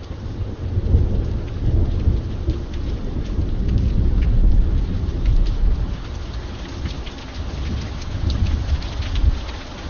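Steady rain with scattered sharp drop ticks, under a long low rumble of thunder that builds over the first few seconds, peaks about halfway through and slowly dies away.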